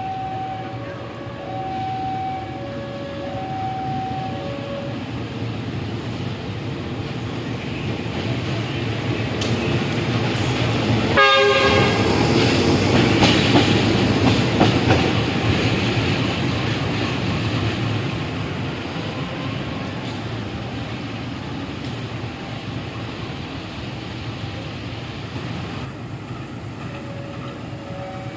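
Railway level-crossing alarm sounding two alternating tones, then a diesel-hauled train passes. A short horn blast comes about eleven seconds in, followed by loud rumble and wheel clatter that slowly fades as the alarm tones come back.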